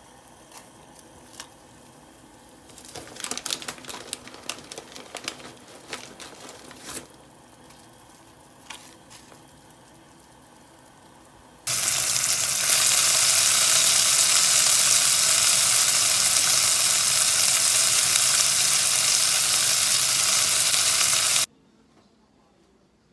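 Bacon strips, sliced garlic and dried chili frying in oil in a pan, a loud steady sizzle for about ten seconds that cuts off suddenly near the end. Before it, quieter bubbling from a pot of boiling water with scattered clicks and crackles as dried fettuccine goes in.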